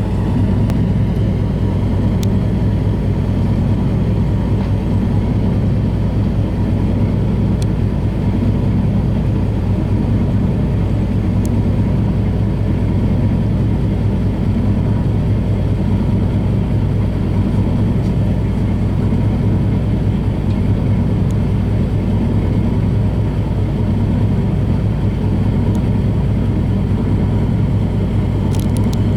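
Steady low drone of a boat engine running at constant speed.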